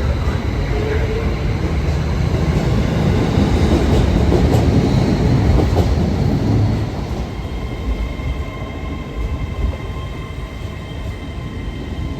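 A passenger train moving through the station platform, its low rumble loudest around the middle and then easing. Through the later part a steady high-pitched whine sounds over it.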